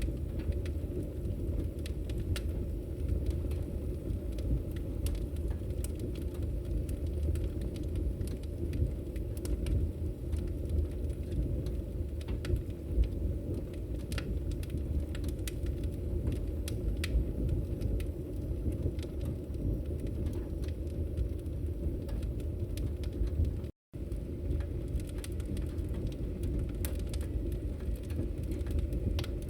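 Wood fire burning in a fireplace: a steady low rumble of flames with scattered sharp crackles and pops. The sound drops out for an instant about four-fifths of the way through.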